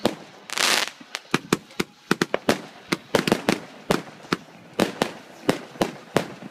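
Fireworks going off: a short hissing burst about half a second in, then a run of sharp, irregular pops and bangs.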